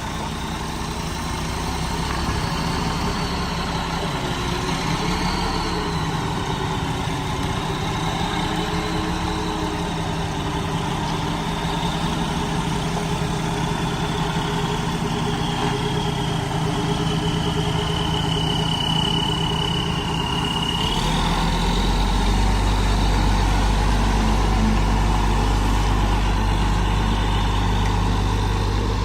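A vehicle engine running steadily with a faint high whine over it. About two-thirds of the way through, its low hum changes and grows stronger.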